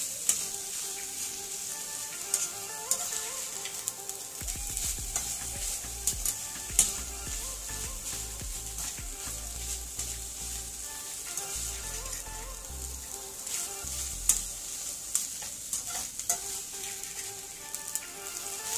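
Omena (small dried silver fish) sizzling as they fry in a pan, with the scattered clicks and scrapes of a metal wire skimmer stirring them against the pan.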